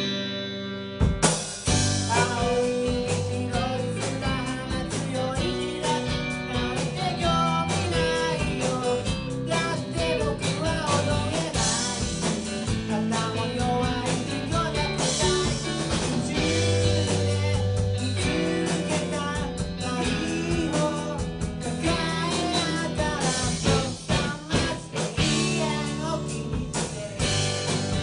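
A rock band playing live: drum kit, electric guitar and bass with a singer. The band starts suddenly, with a second hit about a second in, then plays on at a steady level.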